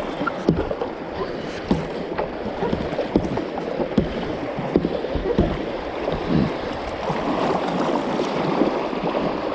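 River water rushing and splashing irregularly around a kayak, with gurgling.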